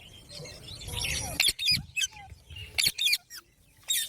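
Pet green parrot giving short, sharp chirping calls, a couple about one and a half seconds in and a quick cluster around three seconds, with a brief rustling noise before them.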